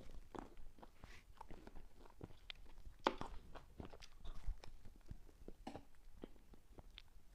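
Close-miked eating of soft whipped cream cake: irregular wet mouth clicks and smacks of chewing, the loudest about three seconds in.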